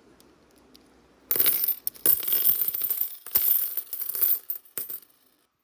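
Silver dimes clinking and jingling together as a handful of coins is poured and shaken. It begins about a second in and comes in dense clusters with short breaks.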